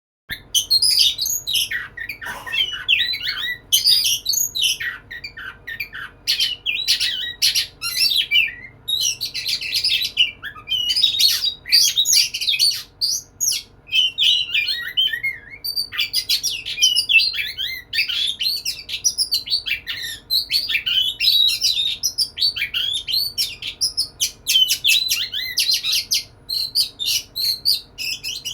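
Oriental magpie-robin (kacer) singing without pause: a fast, varied run of short whistled and scratchy notes, the male's courtship song to a female.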